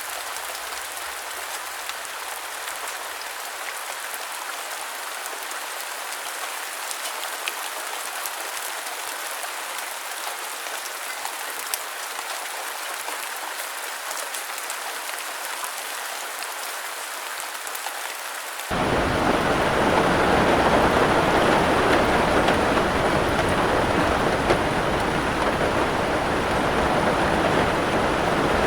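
Steady rainfall, a fine hiss with scattered drops ticking. About two-thirds of the way in it cuts suddenly to louder, heavier rain with a deeper rush.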